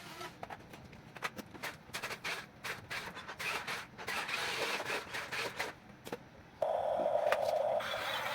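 Huina 1550 RC toy excavator working: its small electric motors and plastic gears whirring in short spurts, with many clicks and knocks. About six and a half seconds in, a louder steady motor whine sets in for about a second, and the whirring carries on after it.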